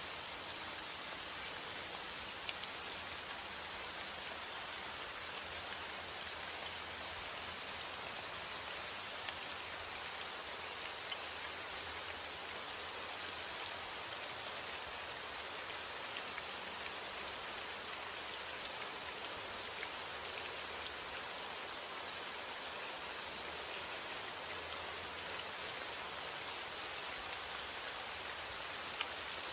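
Steady heavy rain falling, a dense even hiss dotted with many small sharp drop ticks.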